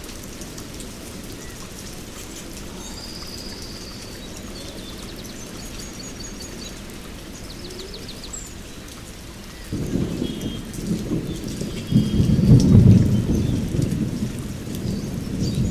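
Steady rain with scattered high bird calls, then thunder rumbling in about ten seconds in and growing to a loud, deep peak a couple of seconds later.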